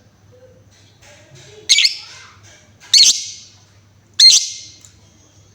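Female lovebird giving three loud, short, shrill calls about a second and a half apart, with faint chirping between them.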